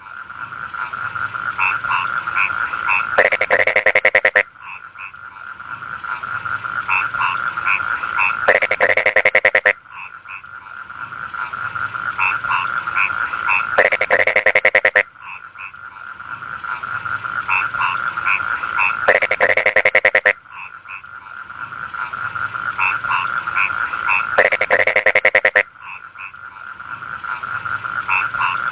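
Rice-field frogs calling: a steady high-pitched chorus with short repeated croaks, broken about every five seconds by a loud, rapid pulsing call about a second long.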